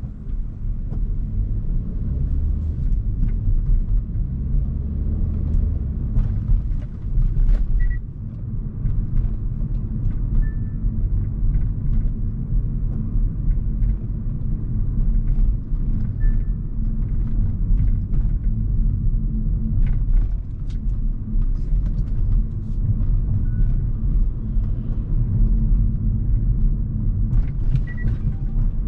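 Hyundai Kona Hybrid driving, its steady low road and tyre rumble building up at the start and then holding level, with a few faint clicks and brief short beeps.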